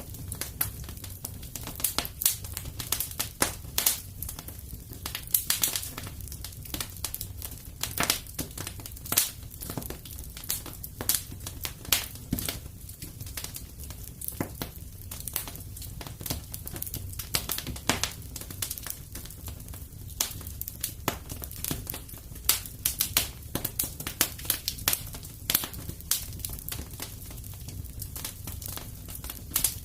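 Wood fire crackling in a fireplace: a steady low rumble of flames under a dense run of irregular sharp pops and snaps.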